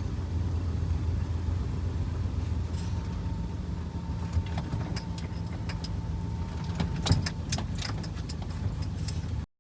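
Vehicle engine idling steadily, with a scatter of sharp clicks and rattles in the second half, the loudest about seven seconds in. The sound cuts off suddenly near the end.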